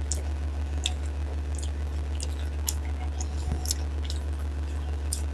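Close-up mouth sounds of eating dal and rice: soft, wet chewing with short smacks and clicks every second or so. A steady low hum runs underneath throughout.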